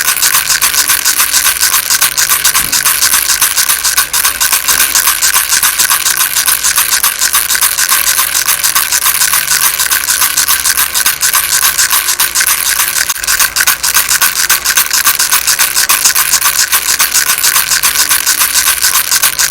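Baby rattle shaken continuously, a steady dense rattling of many rapid small clicks.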